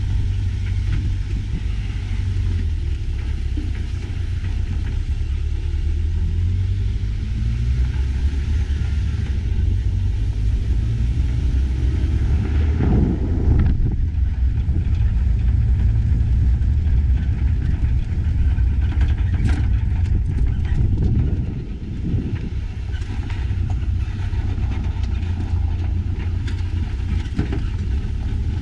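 A ute being driven, its engine running under a steady low rumble from the drive. A few seconds in, the engine note climbs as it picks up speed.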